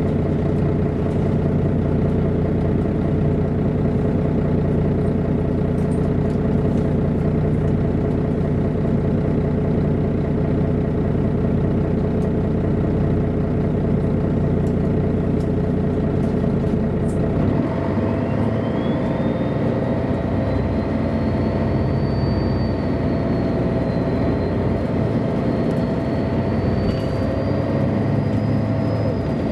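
Diesel engine of a MAN A23 NG313 articulated city bus running steadily, as if idling. About two-thirds of the way through the sound changes as the bus gets going, and a whine rises in pitch and holds high to the end.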